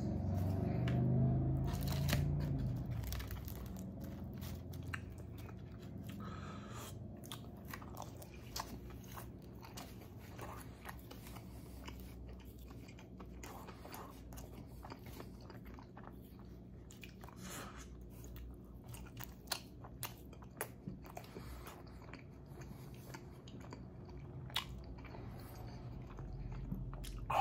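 Person chewing and biting into pepperoni and sausage pizza, with crunches of crust and many sharp wet mouth clicks. A louder low hum fades out over the first couple of seconds.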